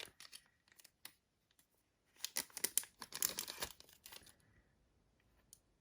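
Tightly sealed wrapper of a trading card pack crinkling and tearing as it is pulled open. The rustling comes in two spells: a short one at the start and a longer one from about two seconds in, with a few small clicks between.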